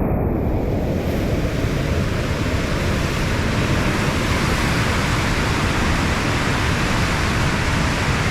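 Fast-flowing floodwater of a swollen river rushing by: a loud, steady, dense rush of noise.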